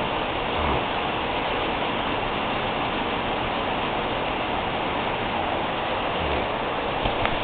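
Steady rushing noise at an even level, with a brief click near the end.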